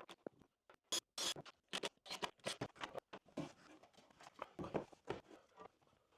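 Irregular light clicks, taps and scrapes from handling tools and workpieces at a workbench.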